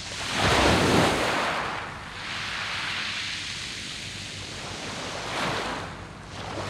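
Surf breaking and washing over a beach of smooth round pebbles. A big wave surges in about half a second in and fades after a second or so, then the wash runs on more evenly, with a smaller surge about five seconds in.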